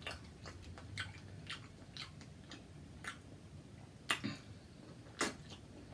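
A person chewing jumbo shrimp: irregular wet mouth clicks and smacks, a few louder ones about four and five seconds in.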